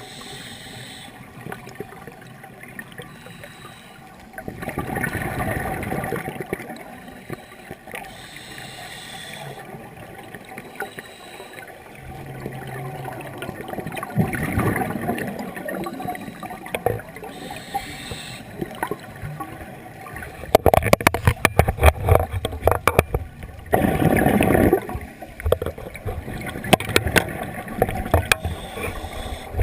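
Scuba diver breathing underwater through a regulator: short hissing inhales alternate with longer bubbling exhalations, every few seconds. About two-thirds of the way in comes a run of rapid sharp clicks, among the loudest moments.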